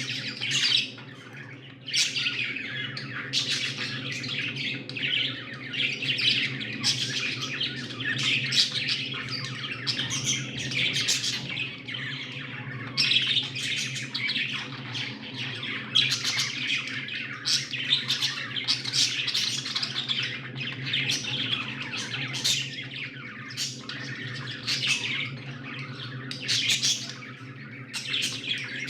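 Several budgerigars chirping and chattering continuously, many short calls overlapping, with a steady low hum underneath.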